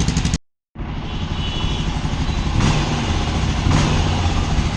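Steady motor-vehicle noise with a low rumble, broken by a brief silent gap just after the start.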